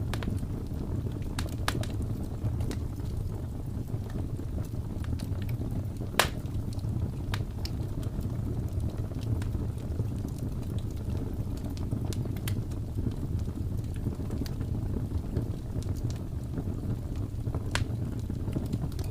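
Wood fire in a fireplace crackling: scattered sharp pops and snaps, one louder snap about six seconds in, over a steady low rumble of wind or flame.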